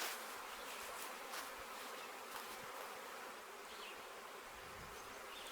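A swarm of honey bees buzzing all around, a steady, continuous hum of many bees.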